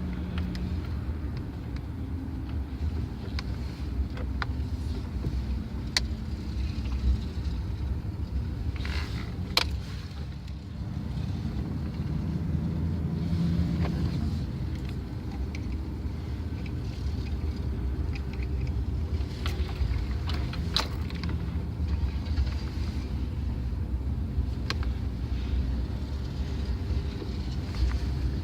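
Pickup truck driving, heard from the back of the truck: a steady low rumble of engine and road noise, with a few sharp clicks and rattles.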